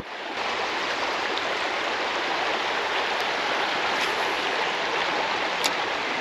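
Creek water flowing, a steady rush of current.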